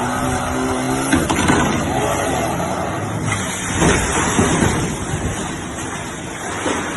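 A motor running, with a steady hum for about the first second, then a louder, rougher jumble of noise that swells and fades.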